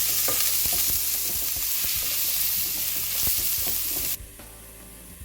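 Chopped onion and cumin seeds sizzling in hot oil in a pan while being stirred, with the utensil knocking against the pan now and then. The sizzle cuts off suddenly about four seconds in.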